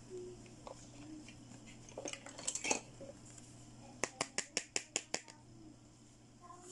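Hard plastic toy doctor-set pieces clicking and clattering as they are handled, then a quick even run of about eight sharp taps on plastic.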